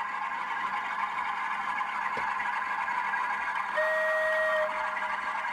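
Class 47 diesel engine sound from a model locomotive's sound decoder, running steadily through a tiny sealed speaker that gives it a thin, midrange-heavy tone. About four seconds in, a single steady tone sounds for under a second.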